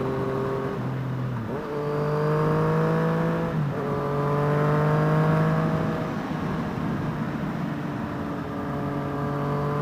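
Yamaha FZ-09's inline-three engine with an M4 aftermarket exhaust under acceleration. The engine note climbs, drops at two upshifts in the first four seconds, climbs again, then settles into a steady cruise.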